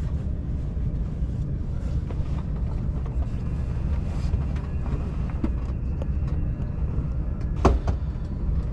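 Steady low rumble of a train, with scattered light clicks and one sharper knock near the end.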